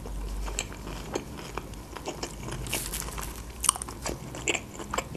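Close-miked chewing of a folded flatbread sandwich (papadia) filled with cheese and mushrooms: soft, wet chewing broken by many short crunches and mouth clicks, a few sharper ones in the second half.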